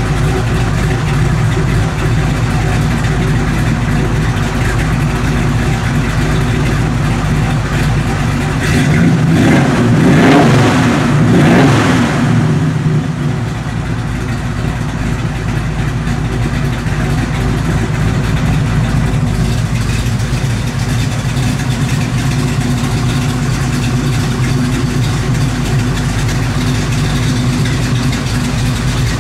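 AMC 360 V8 engine idling steadily, revved up once about nine seconds in and settling back to idle a few seconds later.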